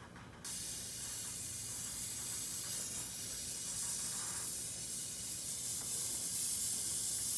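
Gas hissing steadily out of an open copper refrigerant line on a heat pump; it starts suddenly about half a second in.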